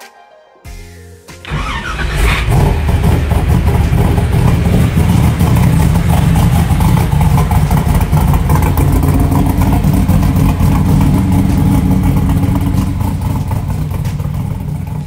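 A 1969 Camaro's 548 cubic inch Dart Big M big-block V8 with fuel injection and headers into a 3-inch Magnaflow exhaust cranks over, fires about a second and a half in with a quick blip of revs, then runs steadily and loudly.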